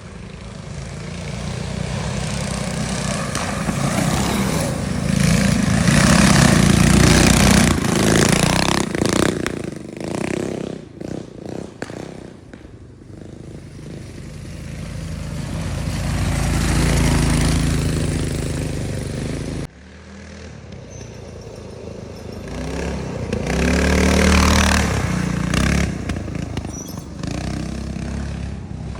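Minibike engines revving as the bikes ride by, the sound building to a loud peak and fading away. After a sudden cut, it builds and fades again near the end.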